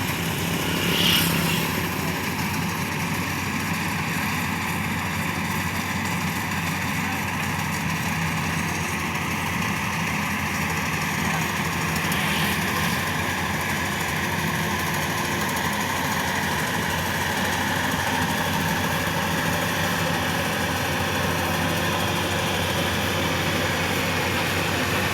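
Combine harvester engine running steadily, with a brief sharp noise about a second in.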